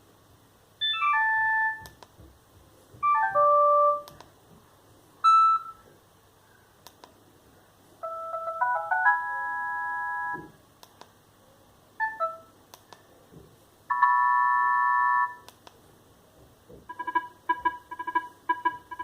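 Sagem myX5-2 mobile phone playing a series of short ringtone melodies through its small speaker. There are brief falling runs of notes, a rising run into a held chord, and another held chord. Near the end a fast pulsing ringtone starts. Faint clicks sound between the melodies.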